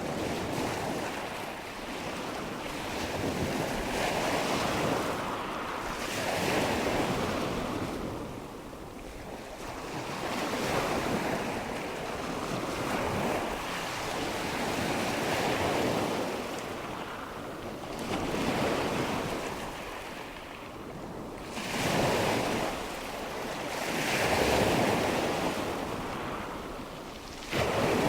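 Rushing water and wind ambience, a steady wash of noise that swells and fades every few seconds.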